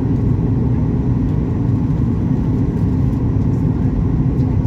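Steady, loud cabin rumble of a Ryanair Boeing 737 MAX 8-200 airliner: engine and airflow noise with a low, even hum.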